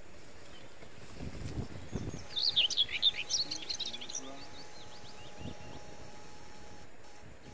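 A bird sings a quick run of high chirps for about two seconds, starting about two seconds in, over steady outdoor background noise. A couple of low rumbles come just before and after it.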